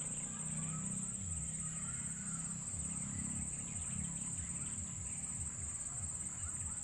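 Steady, high-pitched chorus of crickets or similar insects, with faint bird chirps and a soft low pulsing beneath it.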